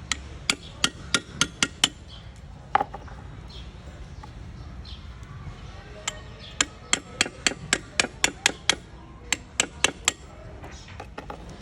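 Quick series of sharp hammer taps, about three a second: a run of half a dozen, a single tap, then after a pause a longer run of a dozen or so, over a low steady hum.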